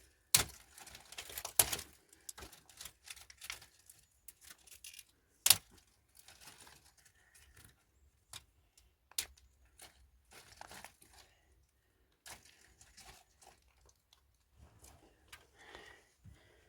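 Handling noises: irregular sharp cracks, clicks and rustling, with the loudest crack about five and a half seconds in.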